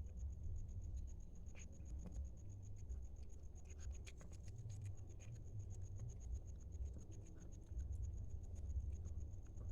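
Light scratching and scattered small clicks of a cat eating from its plate, over a faint steady high-pitched whine.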